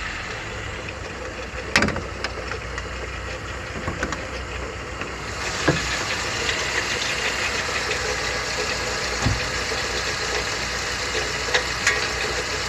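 Chevrolet Niva's four-cylinder petrol engine idling with a knocking, crunching noise from a disintegrating water pump, its bearing failing after the drive belt was overtightened. There is a sharp clunk about two seconds in, and the engine noise comes through louder and clearer about five seconds in.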